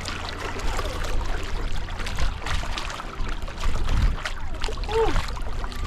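Water splashing and sloshing irregularly beside a small boat while a hooked shark is worked at the side, over a steady low rumble. About five seconds in there is a brief voiced sound.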